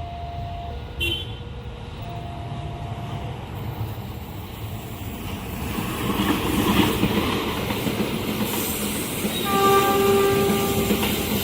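Indonesian passenger train approaching a level crossing, its running noise building from about halfway through. The locomotive horn sounds one long blast near the end. Early on, steady tones alternate between two pitches, in the way of a crossing warning alarm.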